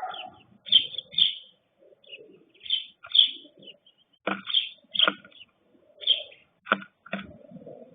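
Small birds at a feeder chirping in quick, short notes, with low cooing from doves or pigeons underneath. A few sharp taps come between about four and seven seconds in.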